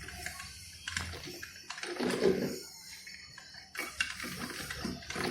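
Morphy Richards Primero drip coffee maker gurgling in irregular surges, with small clicks, as the last of the water in its reservoir is drawn through the heater: the reservoir is running dry.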